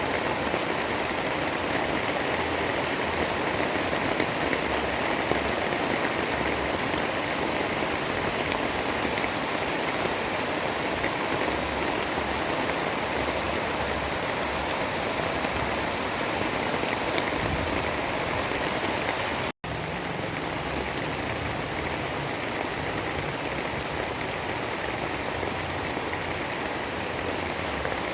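Steady heavy rain, a continuous dense hiss with no single drops or thunder standing out. About twenty seconds in it cuts out for an instant, as at a loop splice, and resumes slightly quieter.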